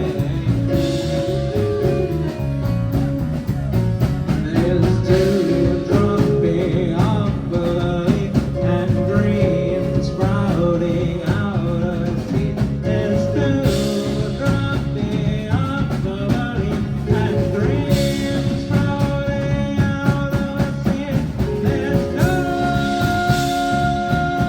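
Live band playing a blues-rock instrumental passage: guitars with sustained notes over bass and steady drums.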